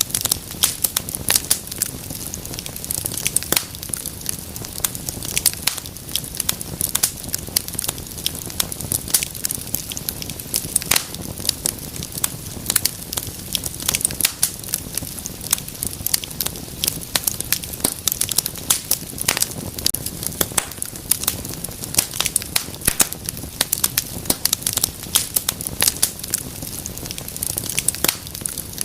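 Wood fire crackling in a fireplace: many sharp irregular pops and snaps over a low, steady rush of burning.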